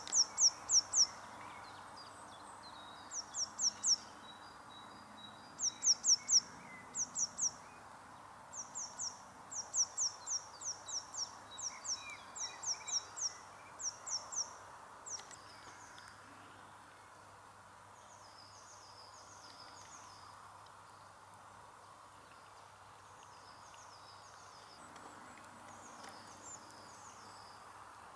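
A small bird calling in the open: short, high, downward-sweeping chirps in quick runs of three to five, repeated every second or two over a faint steady background hiss. About halfway through the runs stop, and only fainter, softer chirp groups follow.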